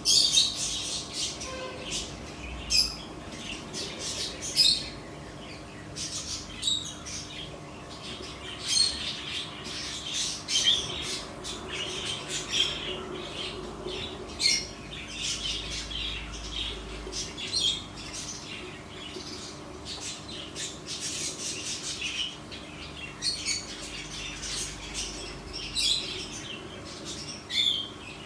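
Small birds chirping and squawking over and over in many short, high calls, over a faint steady hum.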